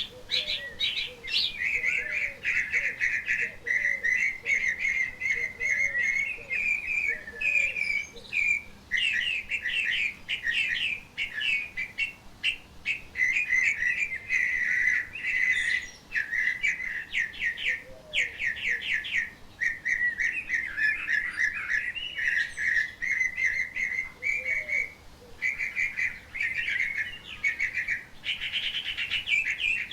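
Wild songbirds singing: a continuous, fast chattering warble of rapid high notes that barely pauses. A second bird gives short, lower notes over it, repeated about twice a second in the first few seconds and again a few times later.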